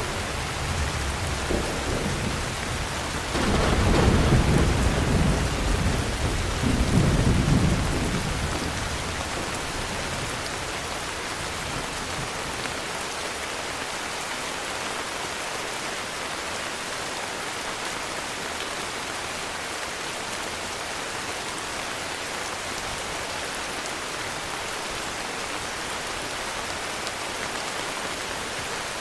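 Heavy rain falling steadily, with a low rumble of thunder that swells about three seconds in, rolls on with a second peak and dies away after about ten seconds, leaving the rain alone.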